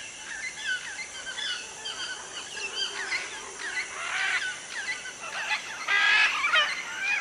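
Dawn chorus of many tropical rainforest birds calling at once: a dense mix of short chirps and whistled slurs, with a louder, harsh call near the end.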